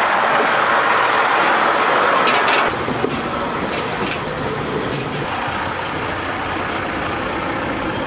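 A train's steel wheels rolling along the rail, a steady clattering noise that is louder for the first two and a half seconds and then drops back, with a few sharp clicks.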